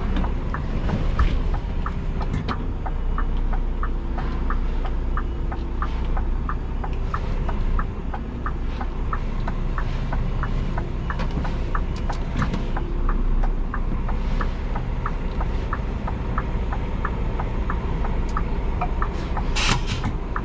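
Scania G410 truck's 13-litre six-cylinder diesel running under way with a steady low rumble, with a regular ticking about twice a second. A short loud hiss near the end.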